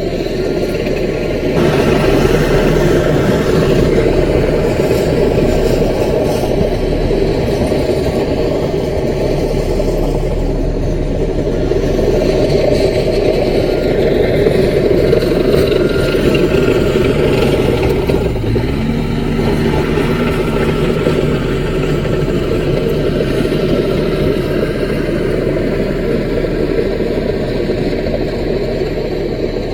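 Mini crawler bulldozer's diesel engine running steadily, its note shifting a little past halfway.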